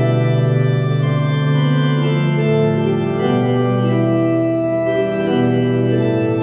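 Slow organ music: sustained chords held over a low bass note, changing a few times.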